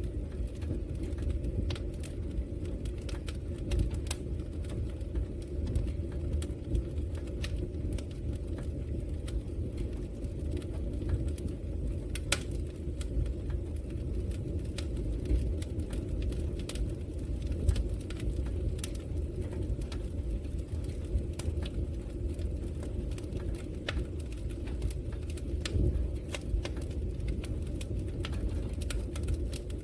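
Wood fire burning in a fireplace: a steady low rumble of flames with many small, sharp crackles and pops from the logs at irregular intervals.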